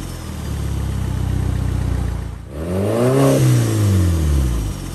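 Audi car engine and exhaust idling steadily. About halfway through the sound briefly drops out, then a single quick rev climbs and falls back to idle near the end.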